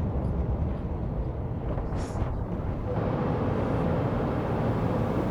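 Low, steady rumble of vehicle traffic, with a brief hiss about two seconds in.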